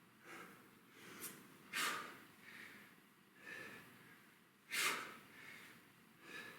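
A man's short, forceful breaths, loudest about two seconds in and again near five seconds, with quieter breaths between: exhales on each lift of a kettlebell stagger-stance deadlift.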